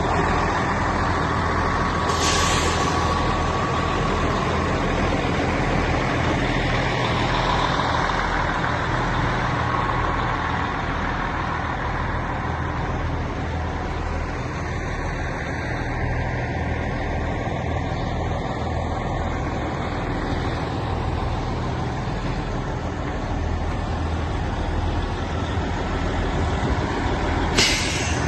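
Engine of a 2002 C500 medium-duty bed truck running steadily, with two short hisses, one about two seconds in and one near the end.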